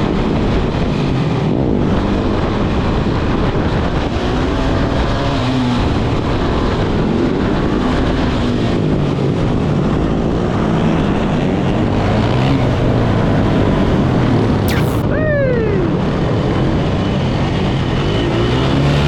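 Dirt bike engine running while riding, its pitch rising and falling as it revs through the gears, with wind noise on the microphone. About fifteen seconds in, a short sharp sound slides steeply down in pitch.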